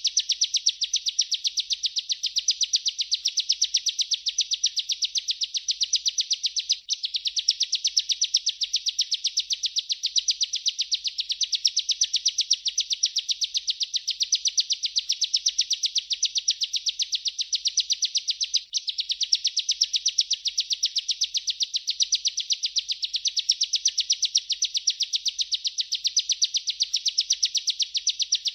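Bar-winged prinia (ciblek) singing a continuous rolling song of rapid, evenly spaced high chirps. The song breaks off for an instant about 7 seconds in and again about 19 seconds in.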